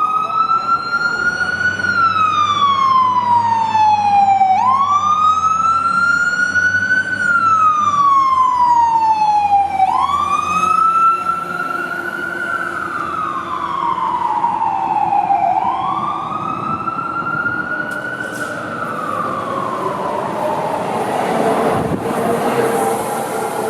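Fire engine siren in a slow wail, each cycle rising quickly and then falling slowly, about every five and a half seconds. The siren grows quieter about halfway through, and a rush of road noise swells near the end.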